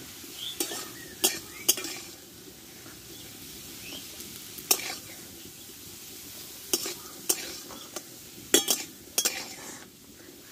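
Potato sticks sizzling as they fry in oil in a steel kadai, with a metal spatula scraping and clinking against the pan about eight times as the fried potatoes are stirred and scooped out.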